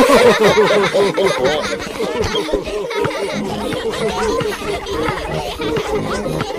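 Several cartoon characters' voices laughing and giggling together, many laughs overlapping.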